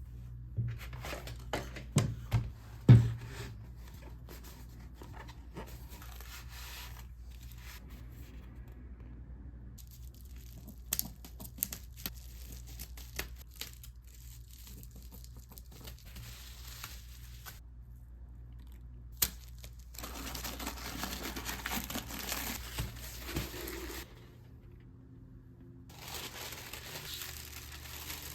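Paper being handled and torn: a few sharp knocks in the first three seconds, then stretches of tearing and crinkling, the longest about twenty seconds in.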